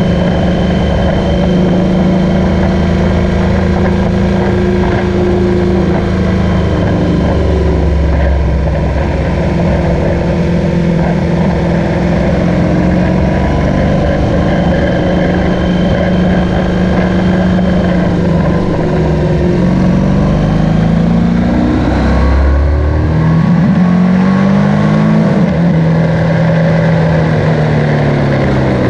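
BMW R1200GS boxer-twin motorcycle engine running under way, with wind noise over the microphone. The engine note holds steady for long stretches, then rises and falls several times in the second half as the bike slows and picks up speed through the bends.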